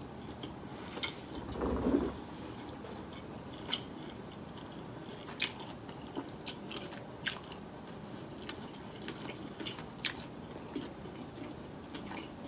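A person chewing food close to the microphone: wet smacking and clicking mouth sounds at irregular intervals, with a brief low hum-like sound about two seconds in.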